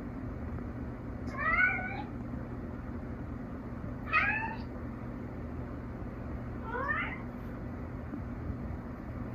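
A cat meowing three times, a couple of seconds apart, each call rising and then falling in pitch, over a steady low hum.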